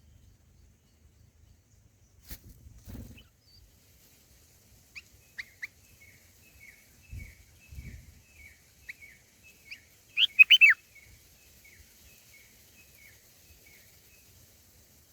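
Small bird chirping: a run of short, evenly repeated chirps, with a louder burst of several quick calls about ten seconds in. A few low bumps come before the calls get going.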